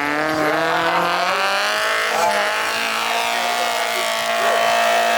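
Off-road 4x4 competition car's engine revving up over the first second, then held at a steady high speed under load.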